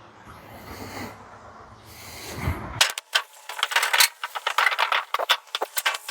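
Two short hissing sprays, then, about three seconds in, a fast, irregular clatter of clicks and light metallic rattling.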